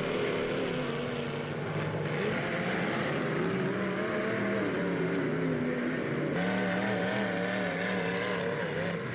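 Several demolition derby cars' engines running and revving together. Their pitches waver up and down as the drivers work the throttles.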